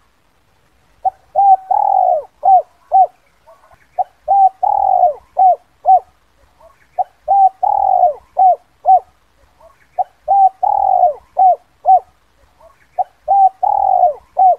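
Spotted dove (Spilopelia chinensis) cooing its 'kuk 2' call, a clean lure call for drawing wild doves in. The same phrase comes five times, about every three seconds: a couple of short coos, one longer drawn-out coo, then three short coos.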